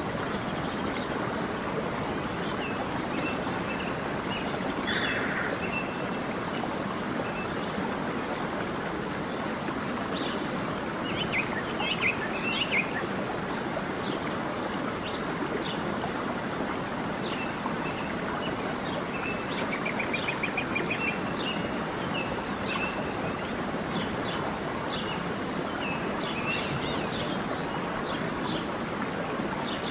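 Steady rushing of a flowing stream with small birds chirping over it. The calls come in scattered short notes, with a louder cluster about twelve seconds in and a quick rapid trill about two-thirds of the way through.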